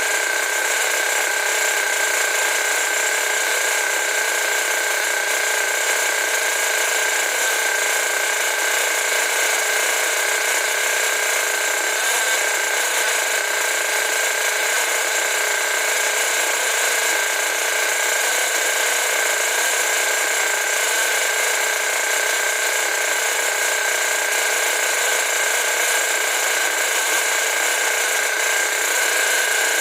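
Force .32 two-stroke glow-fuel (nitro) engine running steadily at high speed on a bench, with an even high-pitched whine that holds the same pitch throughout.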